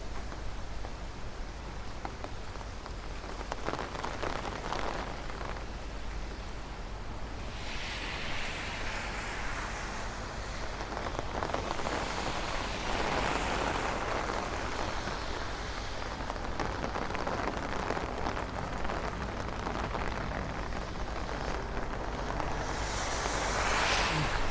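Heavy rain falling steadily on a city street, with a wet swishing sound that swells about a third of the way in and rises again near the end, as of traffic passing on the wet road.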